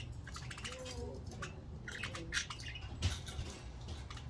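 Budgerigars chirping and chattering in quick, rapid notes, with one sharp knock about three seconds in.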